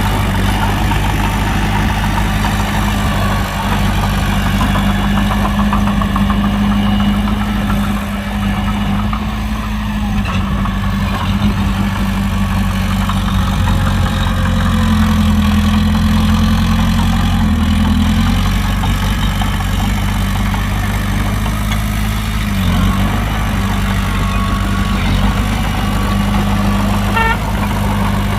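Heavy diesel engine of a dump truck or bulldozer running steadily at low speed, its note rising slightly about halfway through and settling back.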